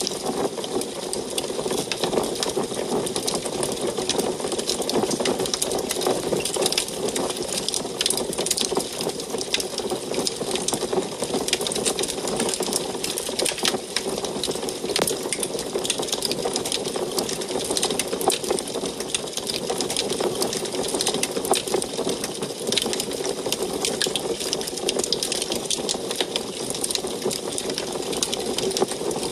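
Wood fire burning in an antique wood stove: dense, rapid crackling over a steady low rush of the flames.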